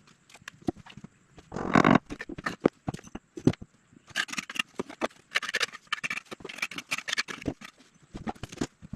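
Irregular knocks and clicks of hand work on building materials, with a few bursts of scraping about two seconds in, near the middle and again past the middle.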